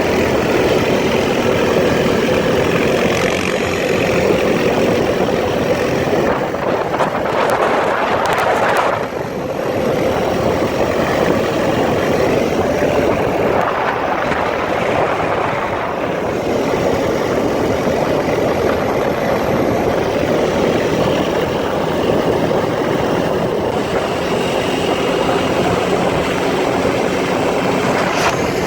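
ATV engine running steadily under way, with a brief drop in level about nine seconds in.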